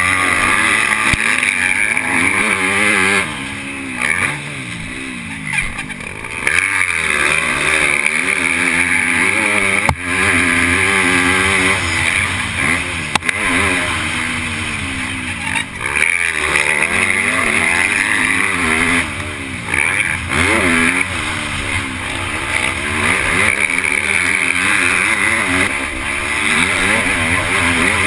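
MX2 motocross bike engine heard up close from on board, its pitch rising and falling over and over as the throttle is opened and closed through the gears. There are brief drops where the throttle is shut off.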